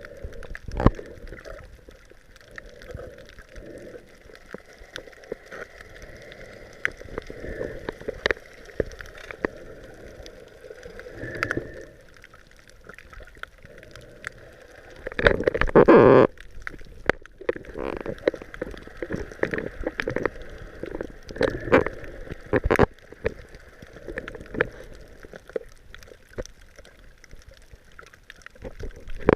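Underwater water noise from a snorkeling camera: gurgling and bubbling, scattered sharp clicks, and one louder rush lasting about a second around the middle.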